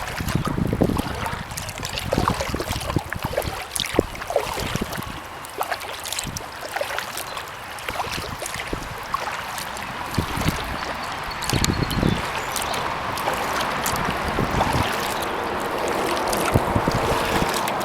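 Kayak being paddled: paddle strokes dipping into the water with running and dripping water, and scattered clicks and low knocks throughout.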